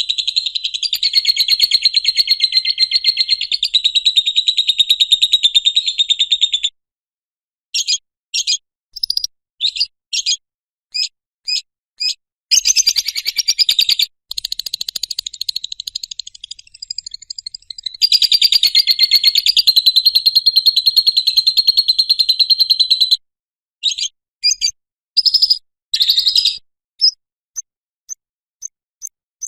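Lovebird singing its ngekek: long, rapid, high-pitched chattering trills held for several seconds at a time, broken by short separate chirps and brief silences.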